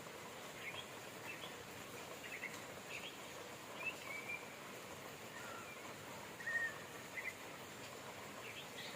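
Steady hiss of rain with small birds chirping on and off throughout: short high chirps and a few brief whistled notes, the loudest a little past the middle.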